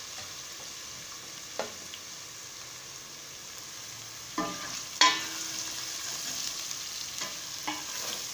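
Spices and chopped ginger and green chilli sizzling in hot sunflower oil in a stainless steel pot, a steady frying hiss over a low flame. A few sharp clicks cut through it, the loudest about five seconds in.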